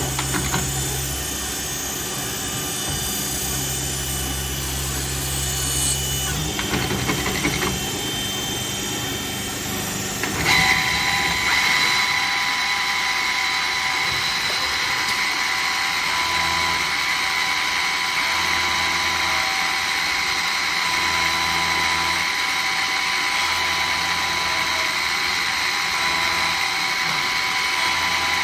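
2001 Traub TNL 26 CNC Swiss-type lathe running, with steady machine noise. About ten seconds in, a steady high whine starts and holds, over a low hum that swells and fades every couple of seconds.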